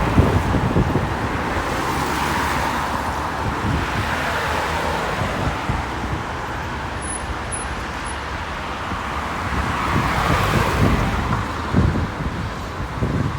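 Road traffic driving past, a steady rush of tyres and engines that swells as a vehicle passes a couple of seconds in and again later on. Wind buffets the microphone at times.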